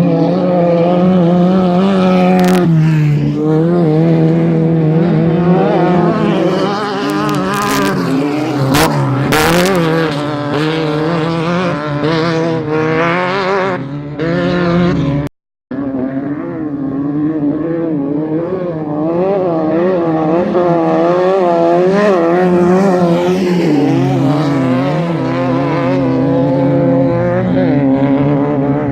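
Off-road desert race vehicle engines at full speed, the pitch rising and falling as the drivers work the throttle over rough terrain, with a few sharp knocks in the first half. The sound breaks off for an instant about halfway through, then the engine sound goes on.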